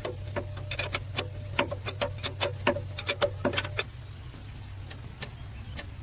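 Quick metallic clicks and taps of hand tools working metal parts, about three or four a second for nearly four seconds, then a few spaced-out taps near the end, over a steady low hum.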